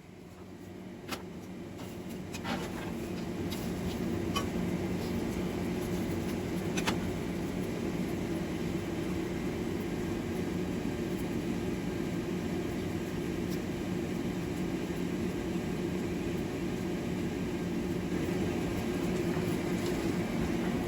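Blacksmith's forge running with a steady low hum and rush while steel heats in the fire, building up over the first few seconds and then holding even, with a few faint clicks.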